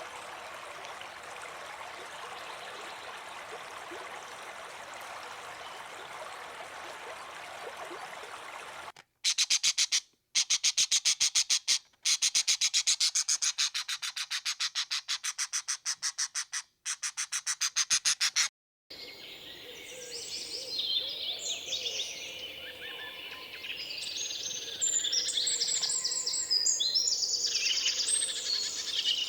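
Nature recordings cut together: first a steady hiss, then a loud, rapid pulsing buzz of about ten pulses a second broken by short silences, then birds chirping and calling.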